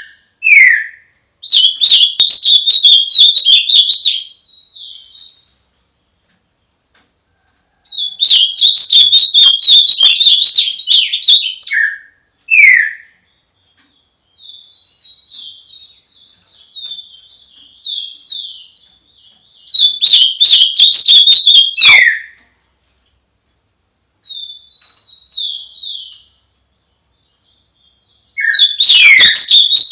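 A songbird singing loud and close: four long bursts of rapid, high twittering notes, about every nine seconds, with shorter calls and falling whistled slides between them.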